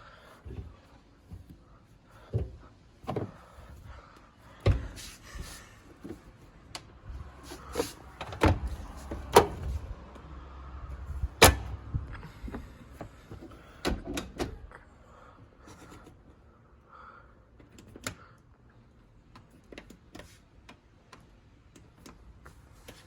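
Irregular knocks, clicks and clunks from an AEG Lavatherm 55820 tumble dryer, spaced unevenly, with the loudest about halfway through.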